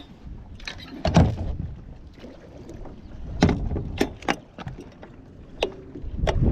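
Sharp knocks and clunks of gear being handled on a boat, about six of them spread over the few seconds, over a low rumble. A steady rushing noise comes up near the end.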